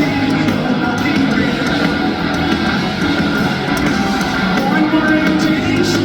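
Rock band playing live at full volume: distorted electric guitars strumming over drums, with regular sharp drum hits.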